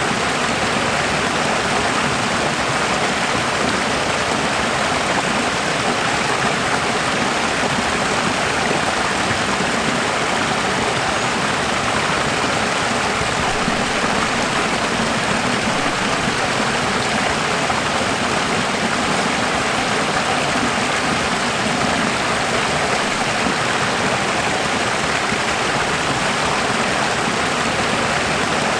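Running water, a steady even rush like a flowing stream, with no change in level throughout.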